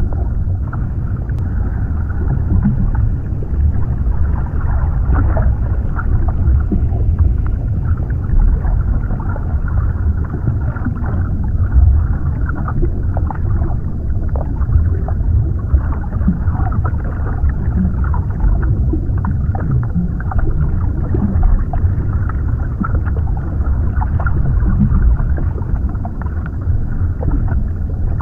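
Underwater ambience: a deep, muffled, steady rumble of water with small scattered crackles and gurgles.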